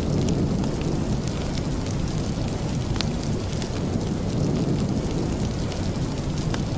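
Steady rain: a dense, even rushing noise, heaviest in the low range, with scattered sharp ticks and crackles throughout.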